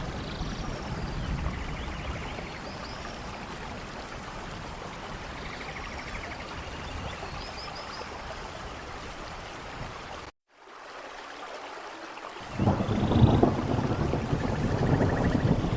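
Steady heavy rain with a low thunder rumble under it. About ten seconds in, the sound cuts out briefly, and near the end a louder rolling thunder rumble comes in over the rain.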